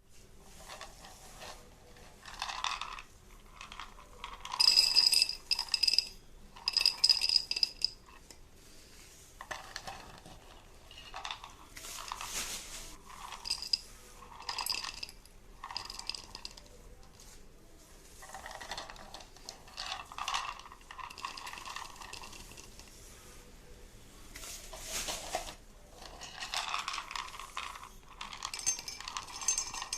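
Small hard objects clinking and rattling in irregular bursts, some strikes ringing briefly with a high, glassy or metallic tone.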